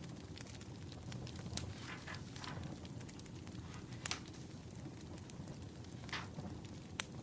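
Wood fire burning, with irregular sharp crackles and pops over a steady low rumble, and a couple of brief hisses.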